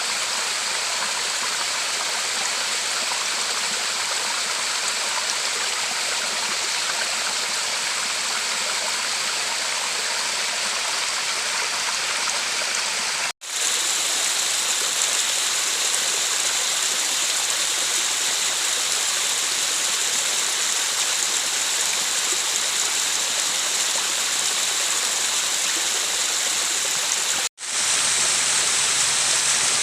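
River water rushing steadily over rocks, an even, continuous flow. It cuts out for an instant twice, about halfway through and near the end.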